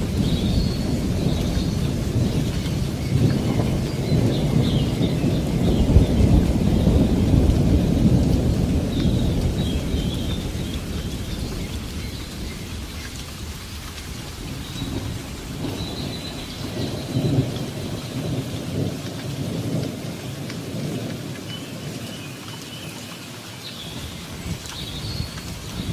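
Steady rain with rolling thunder: a long, loud rumble for the first ten seconds or so that slowly dies away, then a fainter rumble later on.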